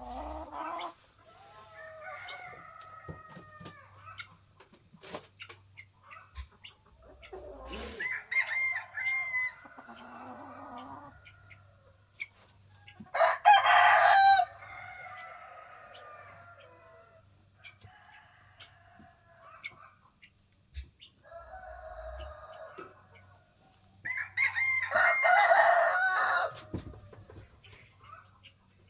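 Roosters crowing several times, the loudest crows about halfway through and again near the end, with chickens clucking between them.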